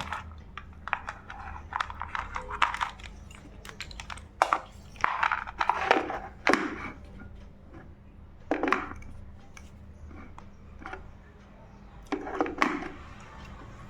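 Packaging and papers being handled: scattered clicks, knocks and rustles, with some soft speech now and then.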